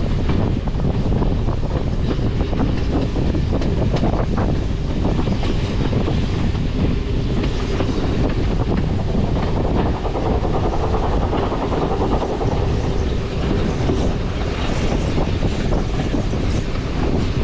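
A train running along the line, heard from on board: a steady rumble with wheels clicking over the rail joints and wind buffeting the microphone.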